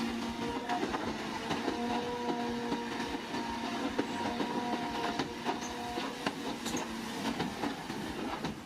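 Crawler construction machine moving, its steel tracks clanking and rattling with many sharp knocks, and several squealing tones that come and go and die away after about six seconds, over the steady run of the machinery.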